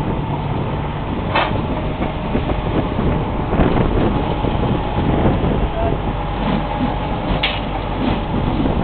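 Tractor diesel engine running steadily under a constant clatter of metal, with two sharp metallic clanks, one about a second and a half in and one near the end, as steel rails are unloaded.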